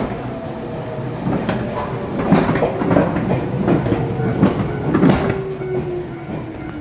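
Inside a Jōmō Electric Railway car, a former Keio Inokashira Line train, running: the motor hum falls slowly in pitch as the train slows, with repeated wheel clacks over the rail joints.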